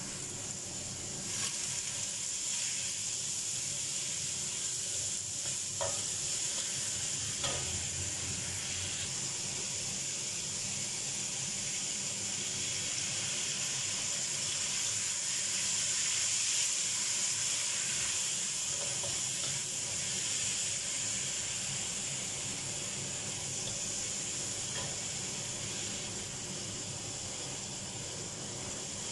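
Cucumber slices and black fungus stir-frying in hot oil in a wok: a steady sizzling hiss, with a few short clinks of the spatula against the wok in the first several seconds.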